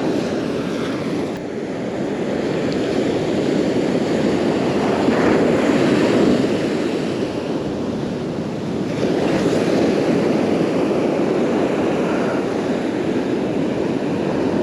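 Rough Gulf surf breaking and washing up the beach, with wind buffeting the microphone; the roar swells twice as waves come in.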